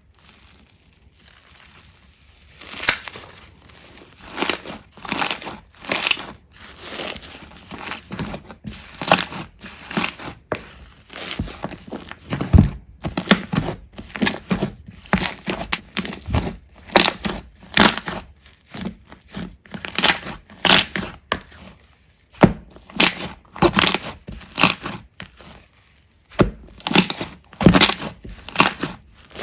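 Slime being squeezed and pressed by hand, giving a quick run of crunching, crackling pops about two a second, starting a couple of seconds in and pausing briefly twice.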